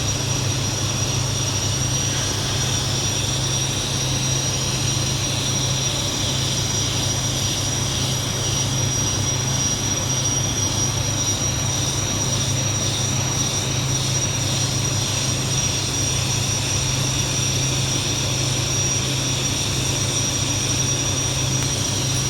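TIG welding on stainless steel pipe: a steady, unbroken hum with a high whine and hiss from the arc and welding machine.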